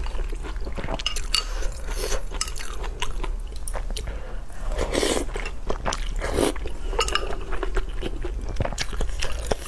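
Wet chewing of soft, soup-soaked meat, with many small sharp mouth clicks and smacks throughout, and two longer wet noises about five and six and a half seconds in.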